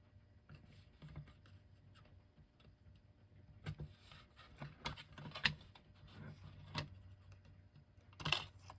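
Faint, scattered clicks and light taps of small tools and clock parts being handled, coming more often in the second half, with a brief scraping rustle near the end.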